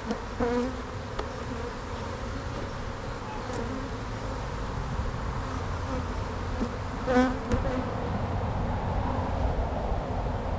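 Honey bees buzzing around an opened hive: a steady hum of the colony, with single bees passing close by in short, louder pitched buzzes, the loudest about seven seconds in.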